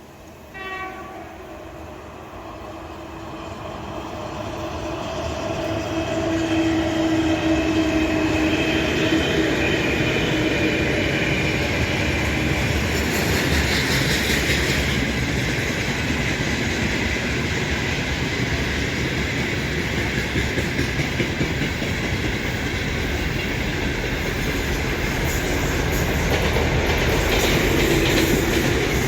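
Freight trains passing close by on a double-track line: a 3ES5K electric locomotive hauling loaded tank cars, and a shunting diesel with two ballast hopper cars. A short horn toot sounds about a second in. The rumble then builds over several seconds, with a steady pitched whine in the middle, and settles into loud wheel rumble and clatter over the rail joints.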